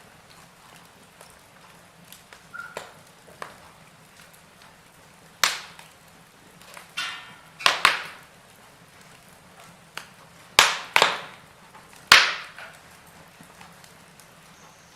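Wood fire of burning logs in a fireplace, crackling: sharp pops and snaps at irregular moments, the loudest a few seconds apart in the middle and later part, over a faint steady hiss.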